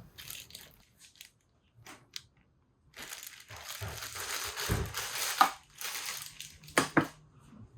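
Plastic packaging crinkling and rustling as a new motorcycle chain slider is unwrapped and handled, about three seconds in, with a few sharp knocks from the part near the end.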